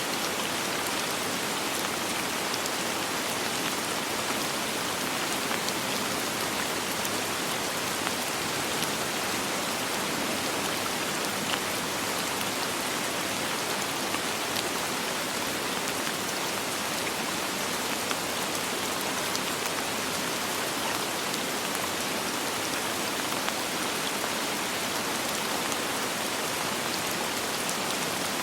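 Steady soft rain falling, an even hiss with faint drop ticks and no thunder.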